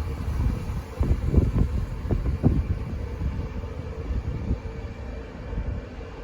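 Train passing non-stop through a station at speed: a rough low rumble with a steady hum, fading toward the end.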